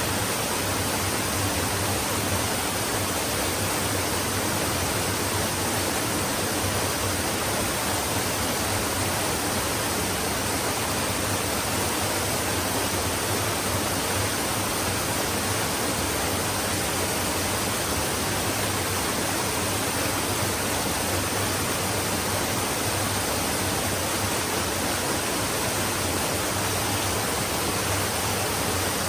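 Flowing stream: water running in an even, unbroken rush with no distinct splashes or changes.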